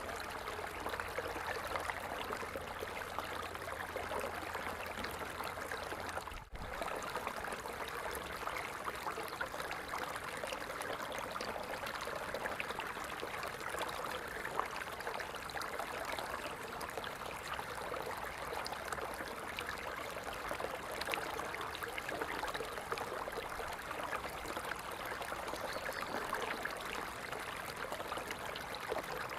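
Water falling and splashing in a steady, unbroken rush, with a brief dropout about six seconds in.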